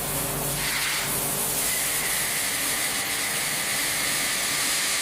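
A steady, even hiss that starts at the beginning and holds at one level, with a faint high steady tone running through it.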